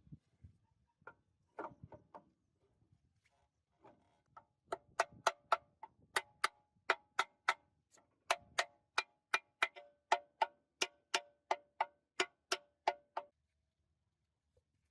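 Metal being struck over and over, about three sharp hits a second, each ringing briefly like a struck steel part. It begins after a few lighter, scattered taps and stops about a second before the end.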